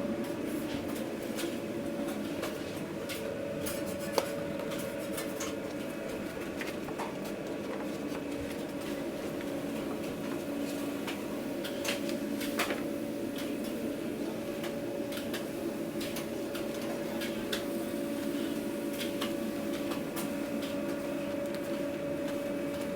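Food truck kitchen: a steady machine hum under scattered clicks and clatter of utensils, pans and takeout containers being handled.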